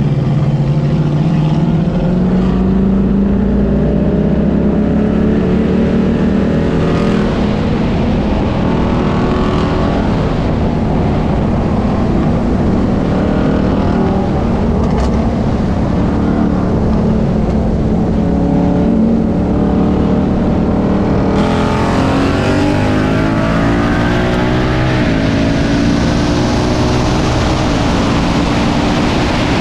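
V8 sports car engine at full throttle in a roll race, pulling up through the gears from about 25 mph to over 110 mph, its pitch climbing and falling back at the shifts. Loud wind rush joins in about two-thirds of the way through as the speed rises.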